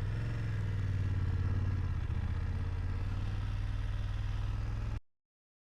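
BMW F750GS parallel-twin motorcycle engine running steadily, with a slight rise in level in the first second or so. The sound cuts off abruptly near the end.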